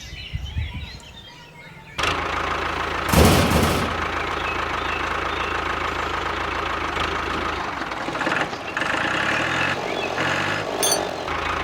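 A mini diesel engine water pump cuts in abruptly about two seconds in and runs steadily with a knocking engine note. It gives a loud burst about a second after starting, and its pitch shifts up and down near the end.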